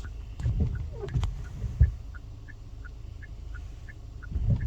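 Short high beeps repeating about three times a second, like an electronic warning chime, over low rumbling and a few dull thumps.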